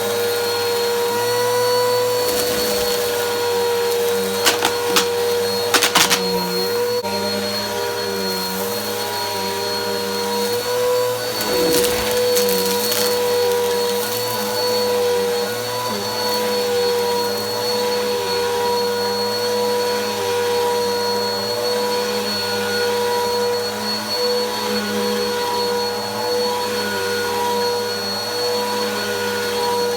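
Vacuum cleaner running steadily, its motor keeping a constant whine. A few sharp clicks or knocks come about five to six seconds in.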